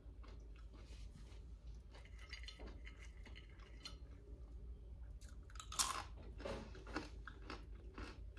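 A person chewing a crunchy snack, with small crunches throughout. A loud crunching bite comes about six seconds in and is followed by more chewing.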